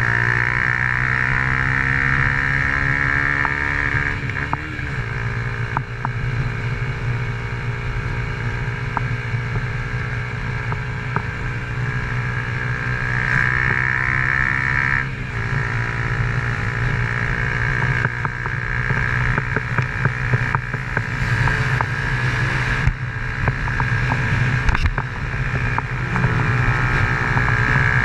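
Honda CG Titan 150's carburetted single-cylinder engine through an aftermarket Fortuna exhaust, running under way. Its note rises and falls with the throttle and drops sharply about 4 and 15 seconds in, with scattered short knocks in the second half.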